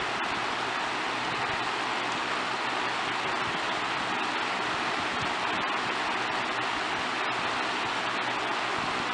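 Lasko 3723 box fan running steadily on its low speed from a cold start, a constant rush of air with a faint low hum underneath.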